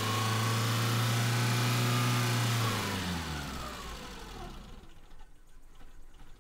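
Maruti Zen's carbureted four-cylinder engine running at a fast idle on full choke. About three seconds in, once the choke is released, its revs fall away and it dies out, a sign that the idle speed is set a bit low.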